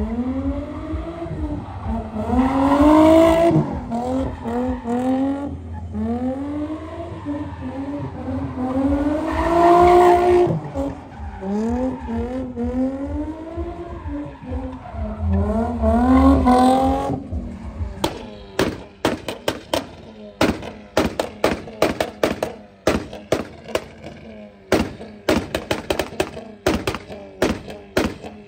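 Car engine revving up and down again and again for about seventeen seconds. It is followed by a long, irregular run of sharp cracks and knocks, several a second, that lasts to the end.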